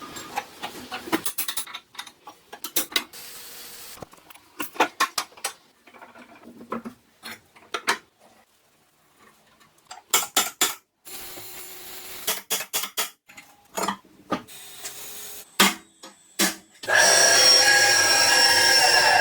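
Workshop handling sounds: a string of separate clicks and knocks from tools and objects being picked up and set down. Near the end a small power tool runs loud and steady for about two seconds.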